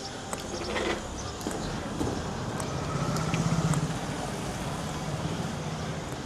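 A motor vehicle passing along the street. Its engine hum swells about three seconds in and then eases off, over general street noise.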